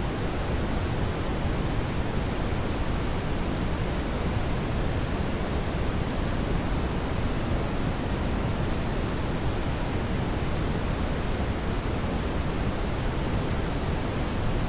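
Steady brown noise: an even, unchanging hiss-like rush weighted toward the low end, with no events or changes.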